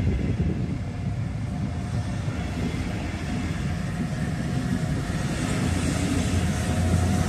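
Diesel-hauled train of double-deck coaches rolling past, a steady low rumble of wheels on rail. The locomotive's engine grows louder toward the end as it draws closer.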